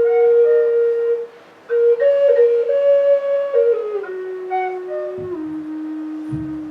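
Acoustic ambient music: a slow melody of long held notes that breaks off briefly about a second and a half in, then steps downward in pitch. Faint higher short notes ring over it, and two soft low thuds come near the end.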